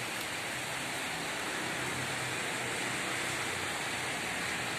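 Heavy downpour: rain falling steadily in an even hiss.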